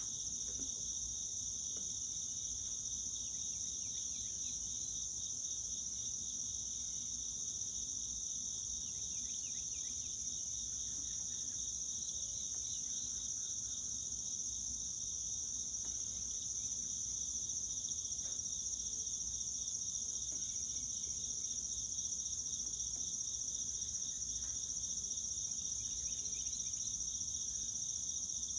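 Insect chorus in the yard: a continuous high-pitched shrill, with a fast pulsing trill just beneath it.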